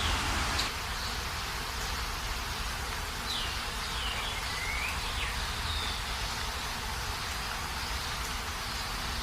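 Steady hiss of rain, with a few short bird chirps sweeping up and down between about three and five seconds in.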